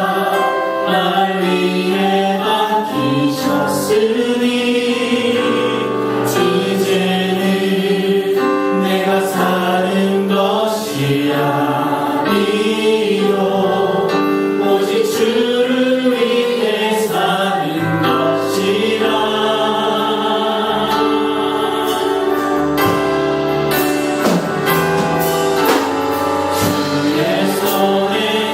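Church congregation singing a Korean worship song together, many voices in unison over sustained music.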